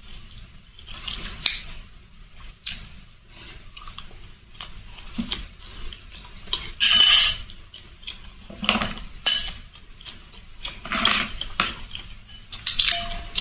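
Close-miked eating from a bowl of spicy rice-vermicelli soup: cutlery clinking and scraping against the dish in irregular short bursts, the loudest about seven seconds in.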